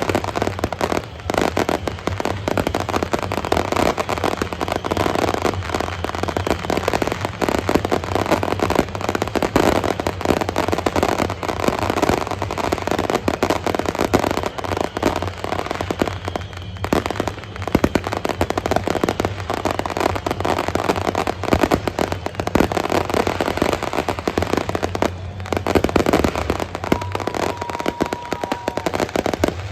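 Fireworks display: a dense, continuous run of bangs and crackles with no real pause.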